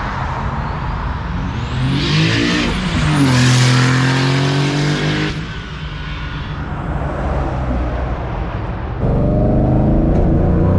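Car engine accelerating hard: it revs up about two seconds in and holds a high note with a loud rushing hiss for a few seconds, eases off, then pulls again louder about nine seconds in.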